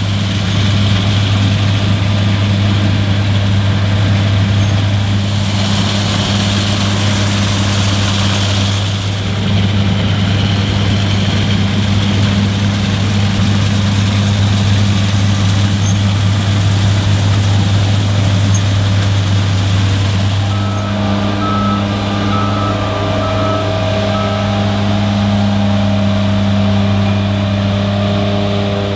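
Heavy diesel engine of a farm machine running steadily under a constant low hum. About two-thirds of the way through, four short evenly spaced electronic beeps sound, and a few extra engine tones join in.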